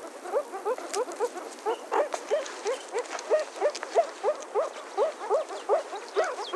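Meerkat calls: a steady series of short, upward-sliding calls, about three or four a second.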